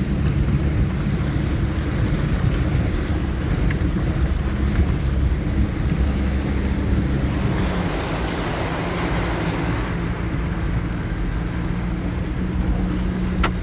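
Off-road four-wheel-drive's engine running steadily at low revs as it wades through deep river water, with water washing around it. A hissing rush swells for a few seconds around the middle.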